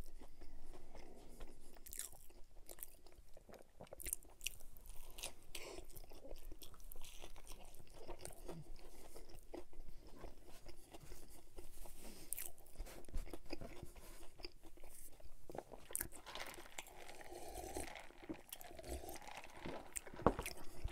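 Close-miked chewing and biting of a chicken sandwich: a string of small, sharp crunches and wet mouth sounds.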